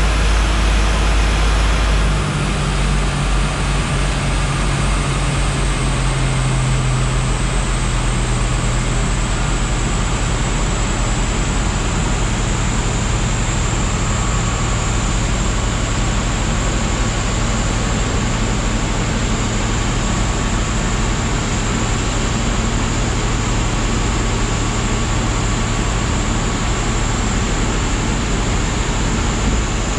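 Car engine running steadily under load on a chassis dynamometer, over a dense rush of noise, with a high whine that slowly drops in pitch. The heavy low rumble eases about two seconds in.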